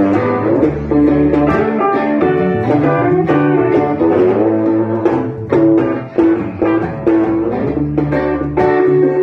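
Live band instrumental break: a lead guitar solo with bent notes over rhythm guitar and bass guitar.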